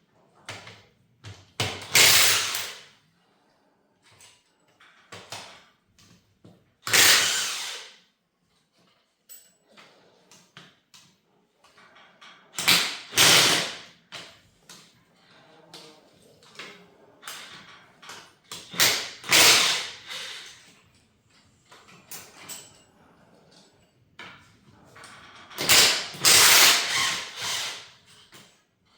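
A power tool spinning bolts out of a Cadillac 429 engine during teardown, in separate bursts of about a second each, six or so times with pauses between.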